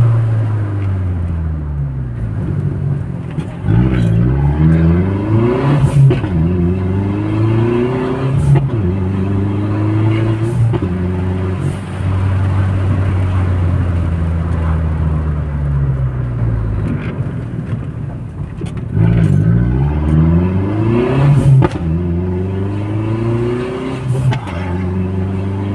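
Turbocharged Audi A3 engine pulling hard through the gears twice: the revs climb and drop sharply at each upshift, with a brief sharp sound at several of the shifts. Between the two pulls the engine holds steady revs and then winds down as the car slows.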